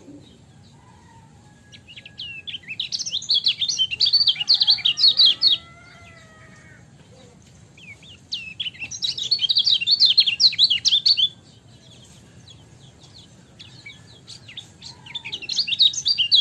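Kecial kuning, a white-eye, singing in three bouts of rapid, high chirps of a few seconds each, with short pauses between.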